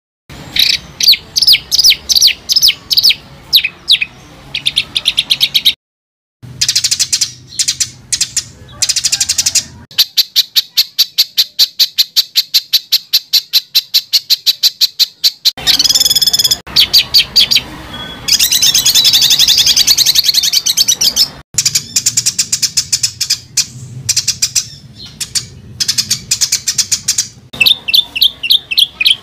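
Songbird singing rapid, closely spaced harsh notes and chatters, the 'tembakan' style of song, in spliced segments with two brief cuts to silence near the start. About a third of the way through, a long, fast, evenly spaced trill runs for several seconds before the varied song returns.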